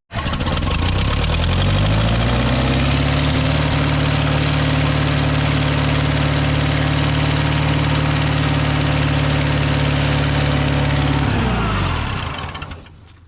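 International 2400B tractor engine turned over on its electric starter to prime the fuel pump: the starter spins up over about two seconds, cranks steadily, then winds down and stops near the end without the engine catching.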